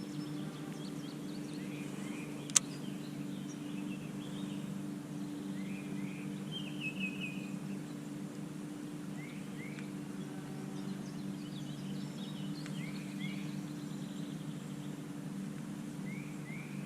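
Small birds chirping: repeated short rising chirps, with one quick trill of several notes about seven seconds in, over a steady low hum. A single sharp click sounds about two and a half seconds in.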